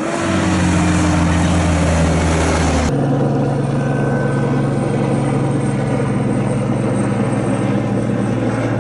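Loud, steady running of heavy engines, with an abrupt change in pitch about three seconds in where one shot cuts to another; the first part drops slightly in pitch as it goes.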